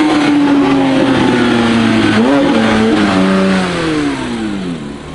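Performance car engine running at high revs, then a quick blip in pitch about two seconds in. After that the note falls steadily and grows fainter as it eases off.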